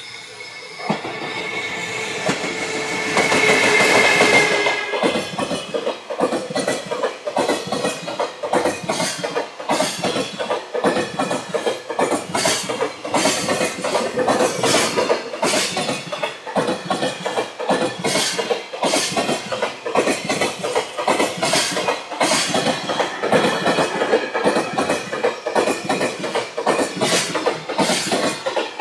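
A 22-car container freight train passing through at speed. As the locomotive goes by in the first few seconds there is a build-up with a steady high tone, and then the wagon wheels clatter hard over a complex rail joint in a rapid, uneven clickety-clack that keeps going as the wagons stream past.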